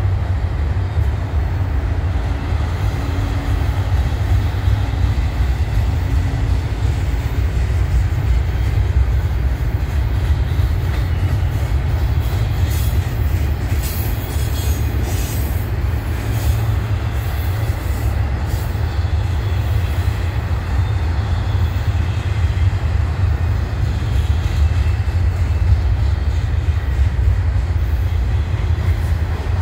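Double-stack intermodal container train rolling past, its well cars making a steady low rumble on the rails, with a few short high wheel squeals about halfway through.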